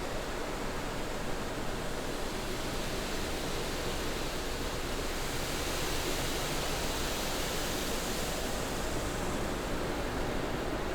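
Gas-station car wash machinery running with a steady rushing noise, like water spray or blowers, that grows a little brighter in the middle and then eases.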